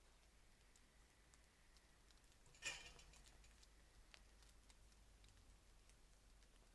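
Near silence with faint, scattered ticks and one sharper click a little under three seconds in.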